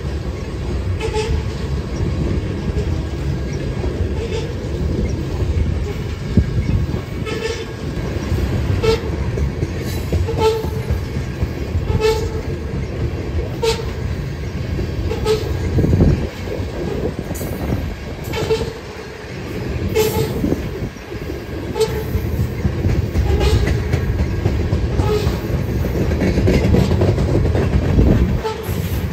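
Freight train passing with a continuous low rumble. A short ringing strike repeats at a steady rhythm, about every three-quarters of a second.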